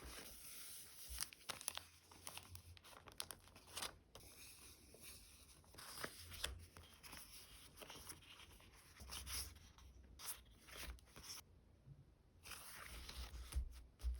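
Stickers being peeled off their backing and plastic sticker packaging crinkling: a quiet, irregular run of short rips, clicks and rustles.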